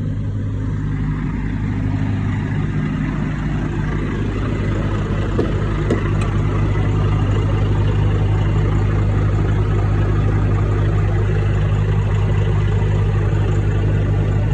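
Truck engine running with a steady low drone, growing slightly louder over the first several seconds.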